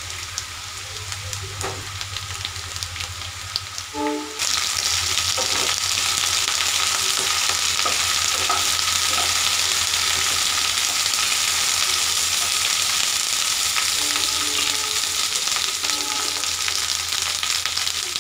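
Cubes of potato and freshly added brinjal frying in hot oil in a non-stick kadai: a steady sizzle with the scrape and clatter of a wooden spatula stirring them. The sizzle turns much louder about four seconds in.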